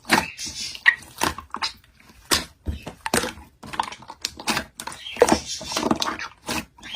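Slime being squished and pressed by hand: a run of irregular sticky clicks, pops and crackles, several a second.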